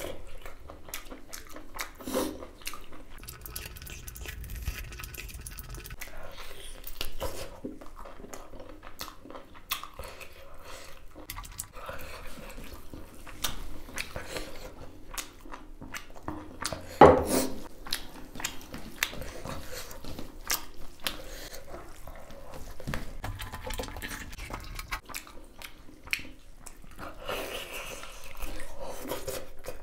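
A person chewing and eating beef small intestine close to the microphone, with wet mouth sounds and light clicks of utensils against a dish. One sharp, much louder knock comes about 17 seconds in.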